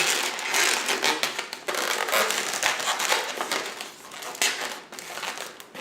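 Latex 260 modelling balloon rubbing and squeaking against itself as it is twisted and tucked into shape by hand, in an irregular run of crinkly squeaks.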